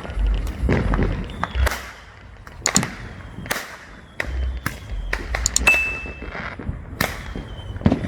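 Consumer fireworks going off all around: a rapid, irregular string of sharp bangs and cracks with low booms beneath them, and a brief high whistle a little past the middle.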